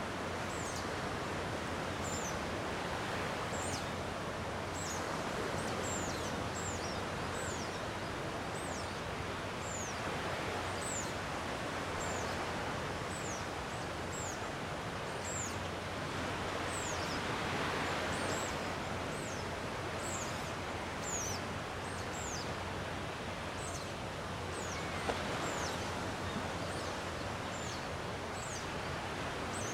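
Calm sea waves washing ashore in a steady, gently swelling rush. Over it a bird repeats short, thin, high falling chirps, one or two a second.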